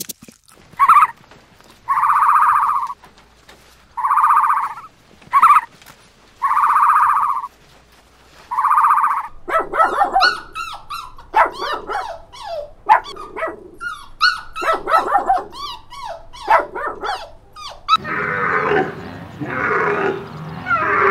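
Small dog vocalizing: a run of evenly spaced high calls, each under a second long, with short sharp yelps between, then quick rapid yips and barks from about nine seconds in. Near the end a denser jumble of lower animal calls takes over.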